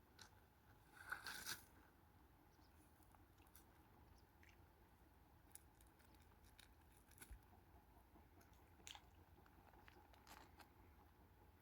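Near silence with a few faint, scattered crunching clicks, a small cluster of them about a second in.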